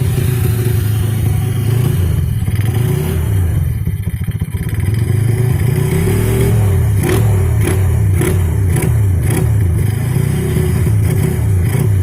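Honda Supra underbone motorcycle's single-cylinder four-stroke engine revving loudly through a gutted (bobokan) exhaust muffler with its baffles removed. The revs drop about four seconds in, then the throttle is blipped repeatedly, rising and falling, with a run of sharp pops in the exhaust around the middle.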